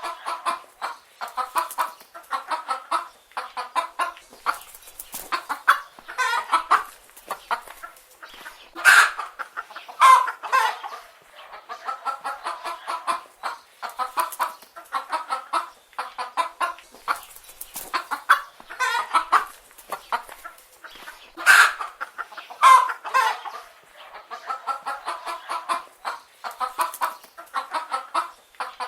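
Chicken hens clucking continuously in short repeated calls, with a few louder calls standing out among them.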